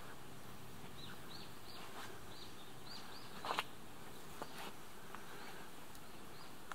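Quiet outdoor ambience with a small bird giving a run of short, arched chirps for a couple of seconds, and once more near the end. A single sharp click sounds about halfway through.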